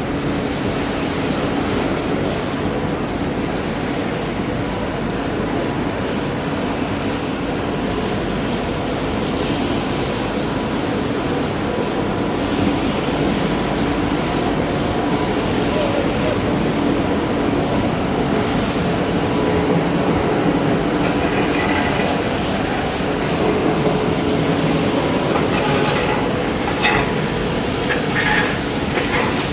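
Paint-stripping carbonization furnace running on trial: a steady, loud mechanical rumble and hiss with a constant hum, with a few knocks near the end.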